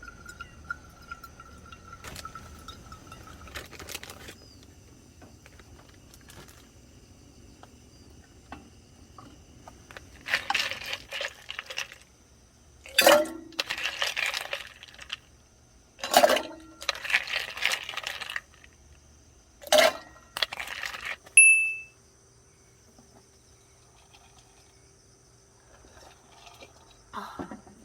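Hard objects clinking and clattering in four short bursts, a few strikes leaving a brief ring, with a smaller clink near the end.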